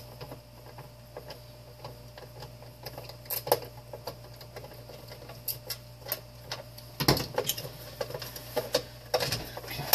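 Irregular clicks, taps and knocks of hand tools, screws and plastic parts as a space heater is taken apart, with a cluster of louder knocks near the end, over a steady low hum.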